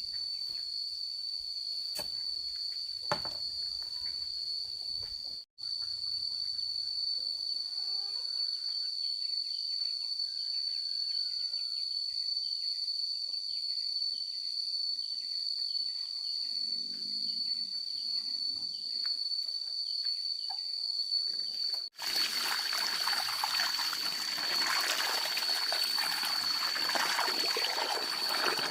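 Steady high-pitched drone of crickets or cicadas, with a few short bird chirps in the middle. After a cut about three quarters of the way in, a loud steady rushing noise joins the insect drone.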